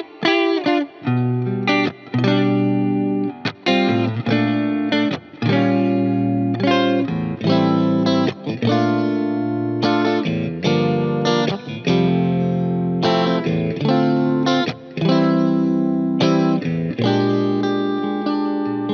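Fender Player Plus Top electric guitar played through effects with some distortion, in phrases of held chords and single notes broken by short pauses, over a backing track.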